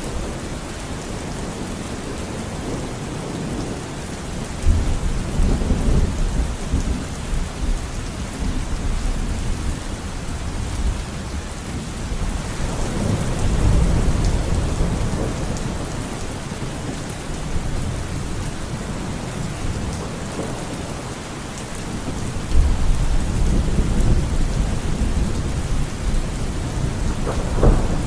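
Steady rain falling, with thunder rumbling three times: about five seconds in, about halfway through, and again near the end.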